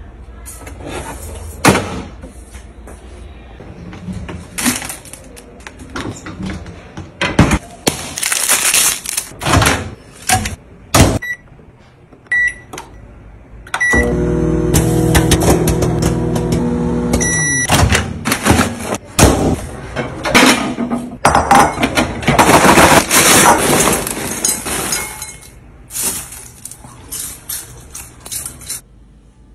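Kitchen handling sounds: a long run of clicks, knocks and clatter from doors, lids and containers. Around the middle come a few short electronic button beeps, then an appliance motor hums steadily for about four seconds and stops with a beep.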